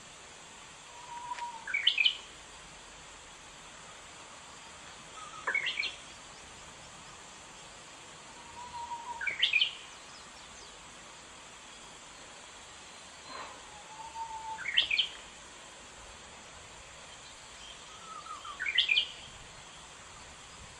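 A Japanese bush warbler singing its song five times, about every four seconds. Each song is a held low whistle followed by a quick rising flourish of notes.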